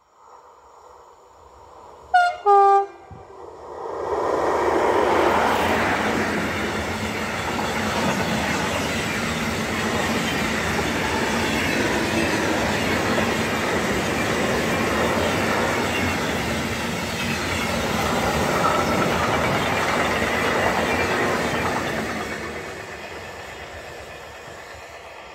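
A freight locomotive's horn gives a short two-tone blast, a high note then a lower one, about two seconds in. The freight train then runs past, a long steady noise of wagons rolling over the rails that fades away over the last few seconds.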